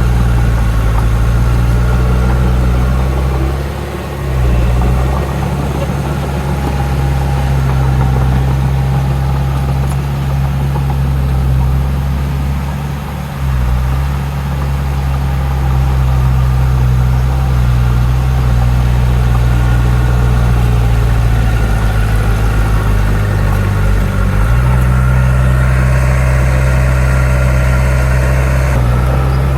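Heavy diesel engine of earthmoving machinery running, its note dipping briefly about four and thirteen seconds in and shifting again a little past the middle as the machine works.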